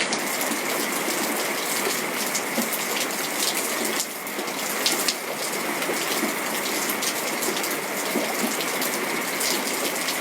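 Heavy rain falling steadily, with many sharp individual drop hits.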